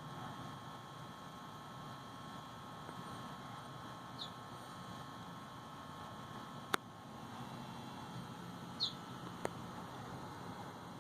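Two short, high, falling bird chirps, about four and a half seconds apart, over a steady faint hum. Two sharp clicks fall between and just after the second chirp.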